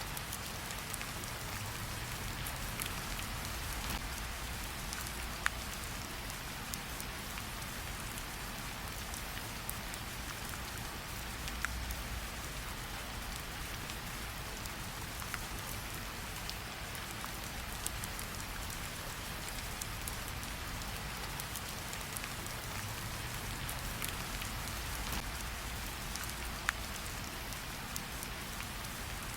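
Steady rain hiss with a low rumble underneath, and a campfire crackling with a few sharp pops, the clearest about five, twelve and twenty-seven seconds in.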